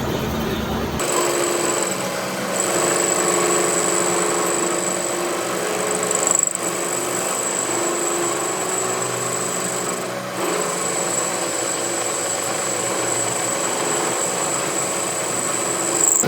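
A power tool running steadily with a high whine, dipping briefly twice, during work on a truck gearbox's main shaft.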